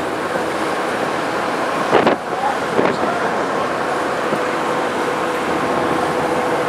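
Steady drone of a car ferry's engines under way, with wind noise, and two short knocks about two and three seconds in.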